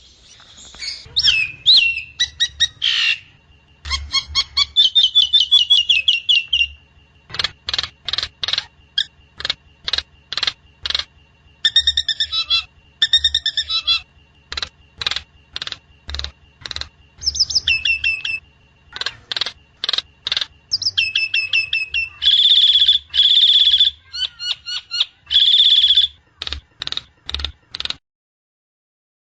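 Nias hill myna calling: loud whistles, sliding notes and quick series of short, sharp chirps, repeated in bursts, stopping abruptly near the end.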